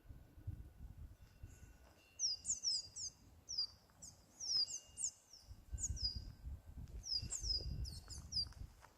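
Small birds calling in quick runs of high, falling chirps, with faint sustained ringing tones from the temple's eave wind bells. A low rumble comes and goes beneath, strongest in the second half.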